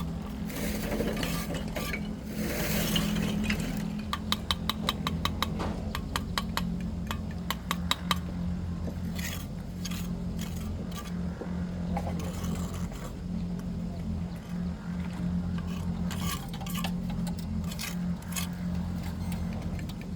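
A steady machine hum with metallic clicking and clinking on top, a quick run of clicks several times a second in the first half, then scattered clicks.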